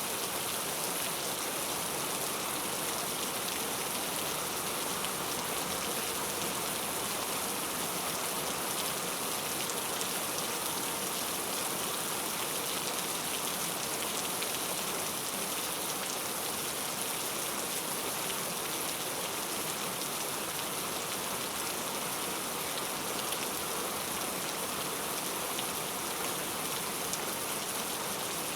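Heavy rain falling steadily: an even, unbroken hiss of drops, brightest in the high frequencies.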